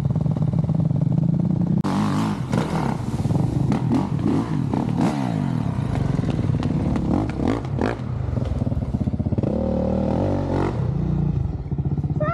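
Dirt bike engine running and revving, its pitch rising and falling as the throttle opens and closes, with knocks here and there from the bike over rough ground.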